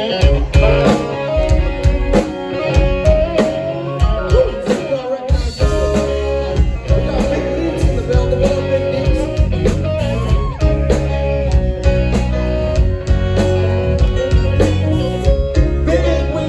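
Live blues-rock band playing: electric guitar lines with bent notes over a drum kit's steady beat and bass, which fills out about five seconds in.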